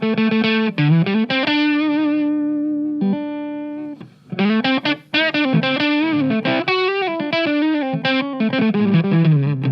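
Electric guitar played through an MXR MC402 boost/overdrive pedal, with an overdriven tone. It plays a lead phrase: a held note early on, a brief break about four seconds in, then bent notes with vibrato.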